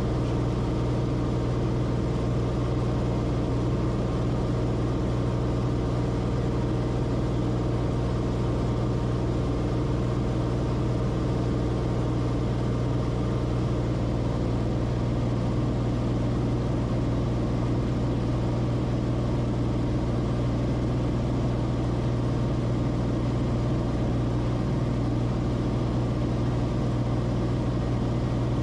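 Cessna Corvalis TTX's turbocharged six-cylinder engine and propeller running at a steady setting, a constant low drone that doesn't change.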